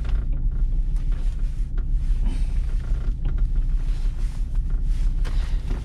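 Diesel car engine idling, a steady low rumble with a few faint clicks over it.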